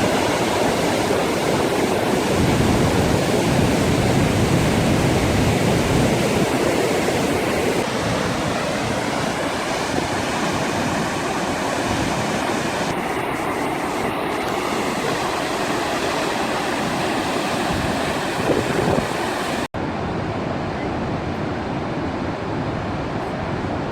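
Steady rush of moving water, loud and even, in a few edited stretches: the sound changes abruptly about 8 seconds in and again, after a brief dropout, about 20 seconds in.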